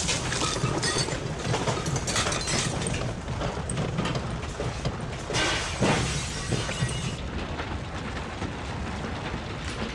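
Earthquake shaking: a continuous low rumble with rattling and clattering of loose objects, and heavier crashes of things breaking, the biggest right at the start, about two seconds in and again around five to six seconds in.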